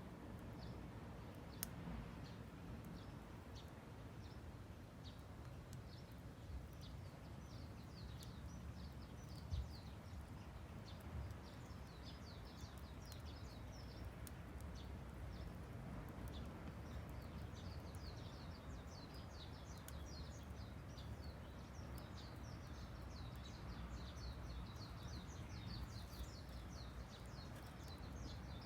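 Small birds chirping in quick, repeated high notes, thickening in the second half, over a faint low outdoor rumble, with a couple of sharp cracks.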